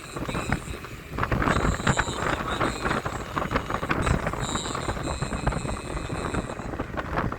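A road vehicle on the move, with wind buffeting and crackling on the microphone and an on-and-off high whine.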